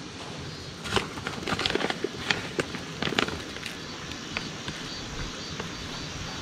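Footsteps crunching on crushed-stone gravel, about two steps a second through the first half, then easing off over a steady background hiss.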